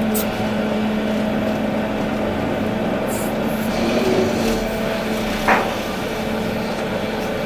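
Volvo EC380D excavator's diesel engine running steadily under work, with short hisses and one sharp knock about five and a half seconds in.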